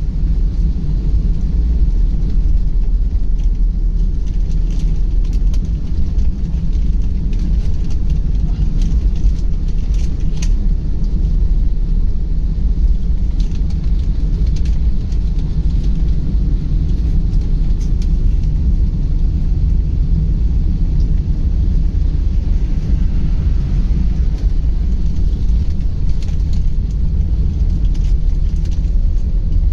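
Steady low rumble of a car driving along the road, with faint scattered ticks now and then.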